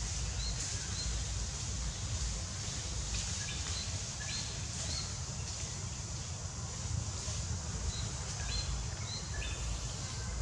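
Forest ambience: a small bird chirping short high notes in groups of two or three, over a steady high hiss and a low steady rumble.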